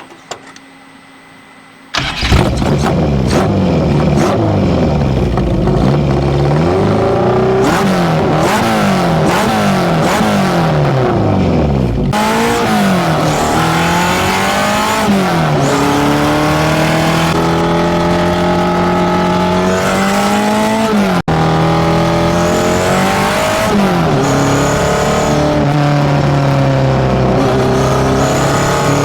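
Datsun B210's tuned A15 inline-four on FCR41 carburettors, through a one-off 54 mm stainless exhaust, starting about two seconds in with a run of quick blips where the revs rise and fall repeatedly. Later come longer pulls where the pitch climbs, drops back as if at a gear change, and holds steady between them.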